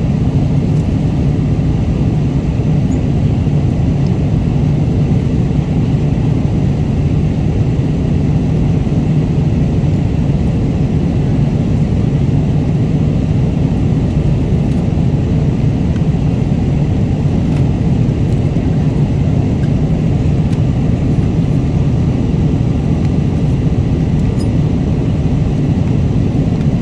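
Steady, loud cabin noise of an airliner in flight: the low rumble of engines and rushing air, unchanging throughout, with a few faint light clicks.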